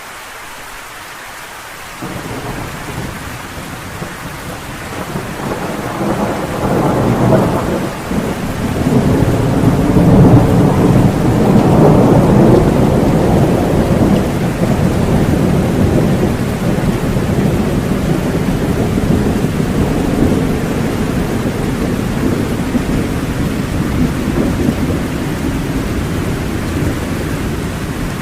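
Steady rain with a long roll of thunder that comes in about two seconds in, swells to its loudest around the middle and slowly rumbles away.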